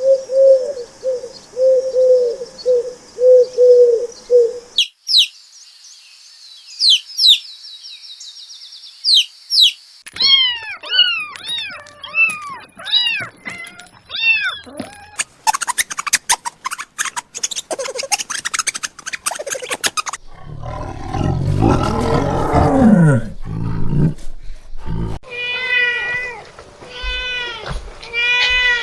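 A run of different animal calls cut one after another: repeated short calls, high chirps, a spell of rapid clicking and a low falling sound, then a cat meowing over and over near the end.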